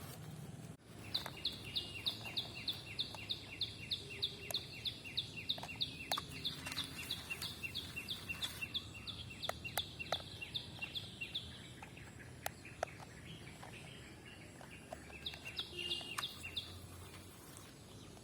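A bird calling in a quick, even series of short, high chirps, about four a second, for roughly ten seconds, then a shorter burst of the same chirps near the end. Faint scattered clicks sit under a quiet outdoor background.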